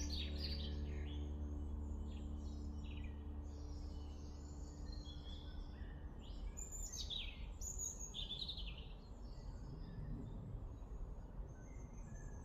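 Birds singing and calling in short chirping phrases throughout, over a steady low rumble. Soft background music fades out over the first few seconds.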